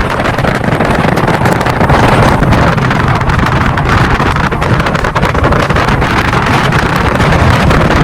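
Loud wind buffeting the microphone over the rumble of a moving vehicle on the road.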